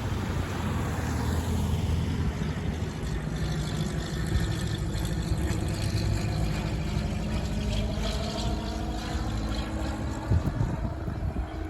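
Airplane engine droning steadily as the plane flies overhead, its sound sweeping slowly in tone. Wind rumbles on the microphone, with sharper gusts near the end.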